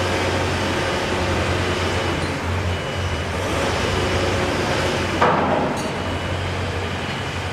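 Steady engine or machinery noise with a low hum, and one sharp knock about five seconds in.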